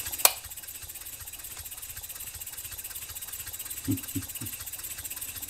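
Model six-cylinder radial steam engine running steadily on less than 2 psi, a fast even patter of exhaust puffs with a hiss. A sharp click comes shortly after the start, and a few soft knocks about four seconds in.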